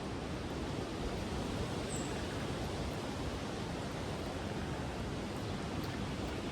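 Steady rushing noise of strong wind on the microphone, with a few faint clicks.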